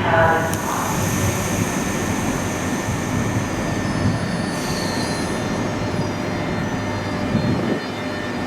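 SBB RABe 503 (ETR 610) electric tilting train running through the station: a steady rumble with faint high whines over it.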